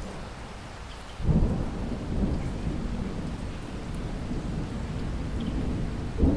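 Steady rain with thunder: a sudden low rumble breaks out about a second in and rolls on, and a second sharp clap comes near the end.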